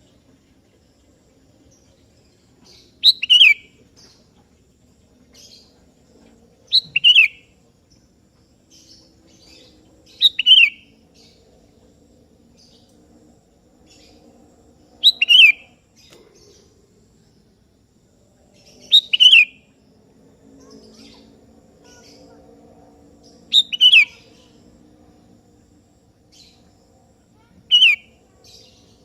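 Sooty-headed bulbul (kutilang) calling: loud, short phrases, each a quick pair of falling notes, repeated about every four seconds. Fainter chirps come in between.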